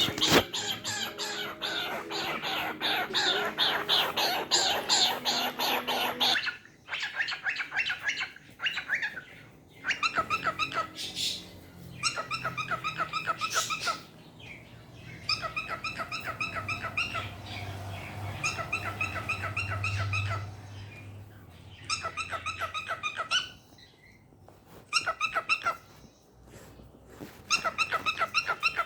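A pet bird calling. It chatters densely for about six seconds, then gives a series of short, fast, evenly pulsed trills lasting a second or two each, with brief pauses between them.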